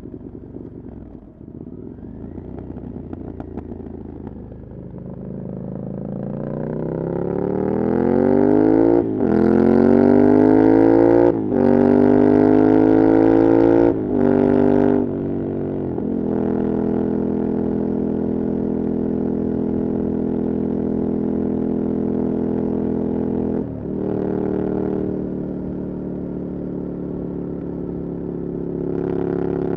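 Ducati Scrambler Desert Sled's air-cooled L-twin, run through a LeoVince exhaust with no dB killer, under way. It rises in pitch as the bike accelerates, with three quick upshifts, each a short break and a drop in pitch. It then holds a steady cruise, eases off briefly and picks up again near the end.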